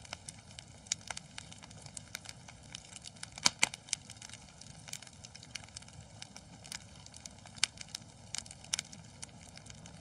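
Wood fire crackling in a fireplace: a low steady hiss with irregular sharp pops and snaps, the loudest few together about three and a half seconds in.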